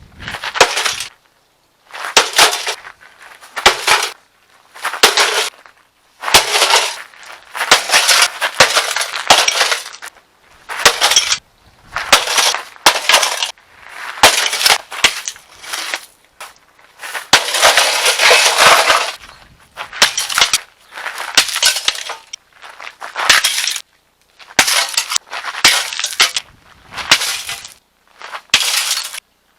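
Water heater being smashed apart: about twenty separate bursts of crashing, breaking noise, each lasting up to a second or so, with short silences between them.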